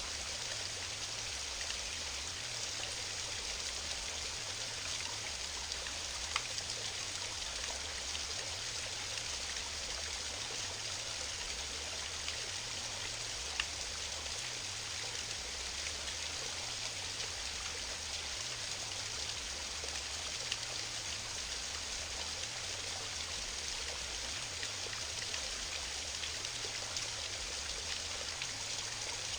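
Waterfall running: a steady, even rush of falling water, with a few brief sharper splashes.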